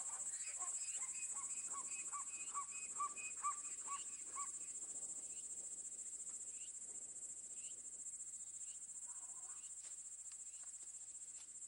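Steady high-pitched insect chorus, with a bird giving a run of about ten short notes, roughly two a second, in the first few seconds.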